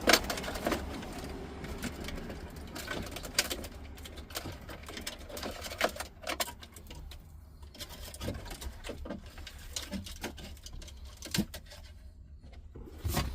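Irregular clicks, taps and light rattling of hands working on plastic dash parts and wiring harness connectors, unplugging them and tucking them out of the way.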